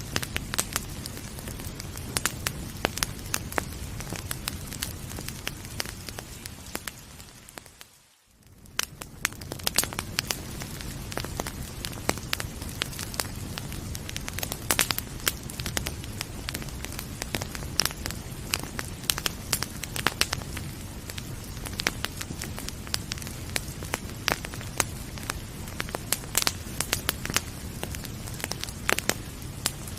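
Wood fire crackling, with frequent sharp pops and snaps over a steady low hiss. About eight seconds in, the sound fades out almost to silence for a moment, then fades back in.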